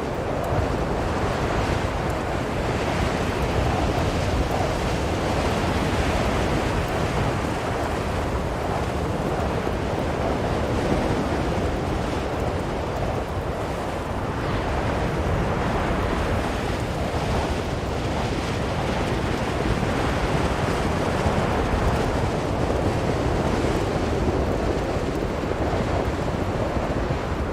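Strong blizzard wind blowing steadily, a dense rushing noise that swells and eases slowly, heavy in the low end.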